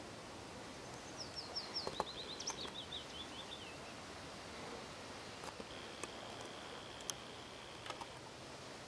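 A songbird sings a quick trill of high notes stepping down in pitch, and later comes a thin, steady high whistle lasting about two seconds, over a steady background hiss. A few faint clicks.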